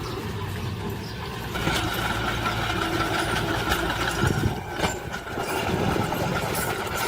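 Engine of heavy earthmoving machinery running steadily. It gets louder about a second and a half in, with a high steady whine over it from then on, and a few sharp clicks or knocks later.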